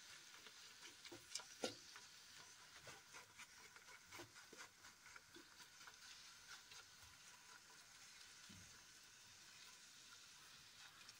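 Faint sizzle of chopped spinach frying in oil in an aluminium pot, with light scraping and ticking of a wooden spoon stirring it, the spoon sounds mostly in the first half.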